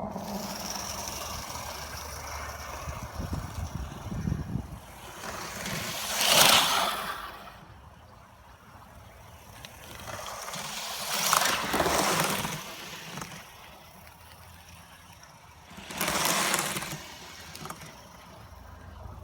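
BR Standard Class 4MT tank steam locomotive making three long hissing blasts about five seconds apart, with a lower rumble between them.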